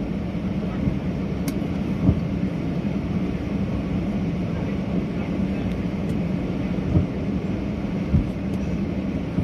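CFM56 jet engines of a Boeing 737-800 heard from inside the passenger cabin: a steady rumble with a constant hum. Three short thumps come about 2, 7 and 8 seconds in.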